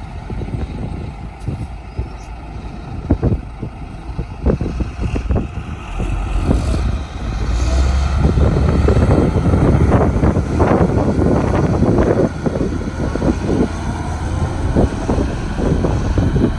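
Heavy diesel construction machinery running, with a low rumble that swells and gets louder about six to eight seconds in, under many irregular knocks and rattles.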